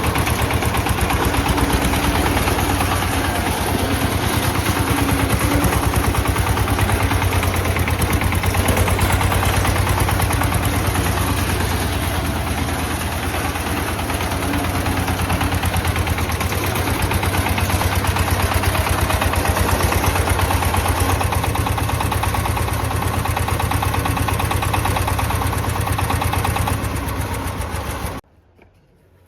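A 25 HP mini tractor's engine running steadily with a rapid, even pulse, then cutting off suddenly near the end.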